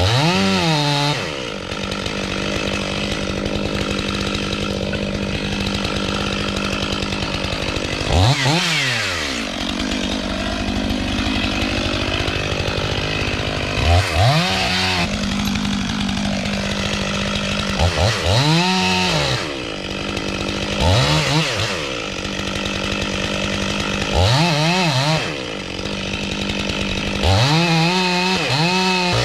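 Stihl MS 500i fuel-injected two-stroke chainsaw running steadily during tree felling, its pitch swinging up and back down in a brief rev about every four to six seconds.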